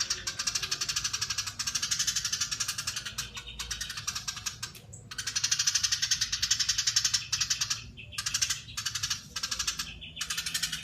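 Eurasian tree sparrow chattering in a long, fast, tightly packed run of high notes. The chatter breaks off briefly about halfway through and a couple of times near the end.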